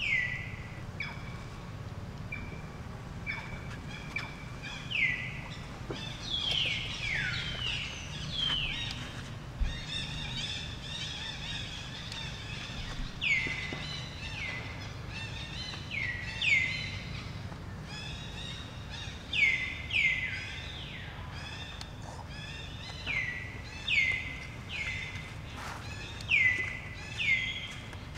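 A bird calling over and over in short notes that slide quickly downward, about one a second, some in close pairs, over a low steady background rumble.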